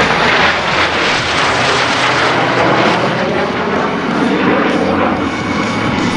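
A fixed-wing airplane flying past with loud engine noise, the sound sliding lower toward the end as it goes by.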